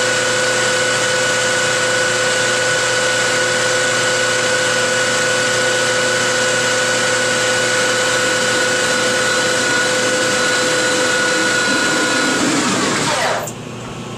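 Metalworking lathe spinning a chromoly steel part at about 2,000 RPM while a second piece is pressed against it for friction welding: a loud, steady whine with several steady tones. About 12 seconds in the lathe is shut off and the pitch falls as it winds down.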